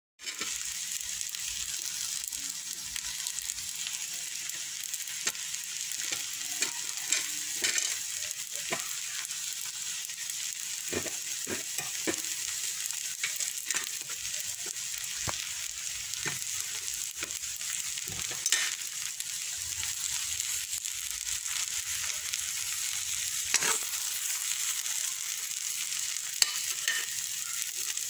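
Rice noodles and vegetables sizzling in a hot pan: a steady frying hiss with scattered short clicks and scrapes as they are stirred.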